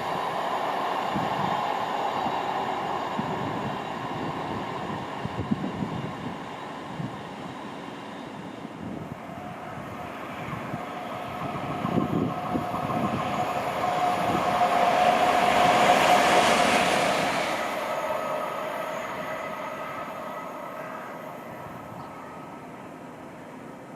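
Train passing along the line: a rumble that fades over the first several seconds, then a train's running noise with a steady whine that swells to a peak about two-thirds of the way through and dies away.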